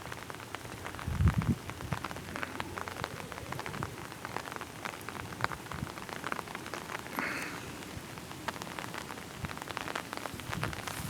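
Light rain falling, individual drops making many irregular sharp ticks close to the microphone, with a brief low thump a little over a second in.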